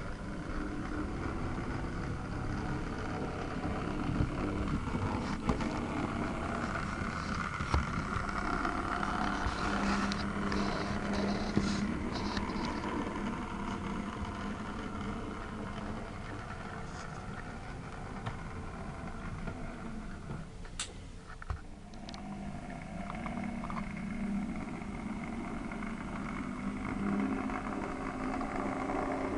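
OO gauge model diesel train running on the layout: a steady mechanical hum with a few sharp clicks. The hum dips briefly about two-thirds of the way through.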